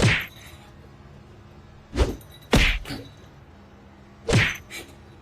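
Several sudden thumps, some in quick pairs.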